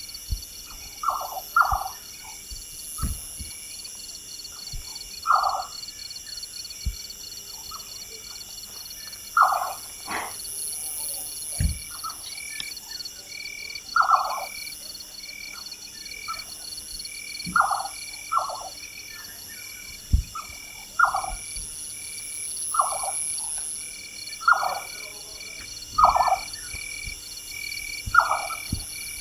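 Jerdon's nightjar calling at night: a short quavering note repeated every two to three seconds, sometimes given twice in quick succession. Behind it runs a steady, evenly pulsing insect chirr.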